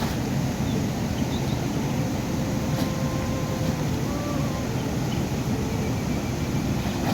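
Steady rain, an even rushing noise heaviest in the low end, with a few faint short tones over it.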